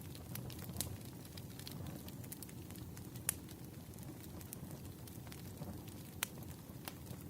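Firewood burning: a steady low rumble of the fire with scattered crackles and a few sharper pops.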